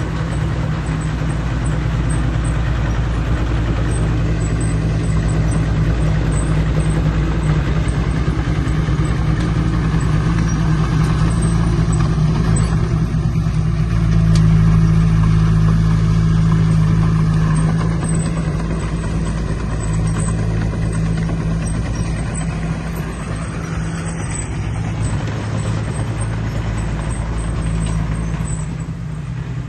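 Large diesel engine of heavy earthmoving machinery running under load with a steady low drone. It grows louder for a few seconds about halfway through, then settles back.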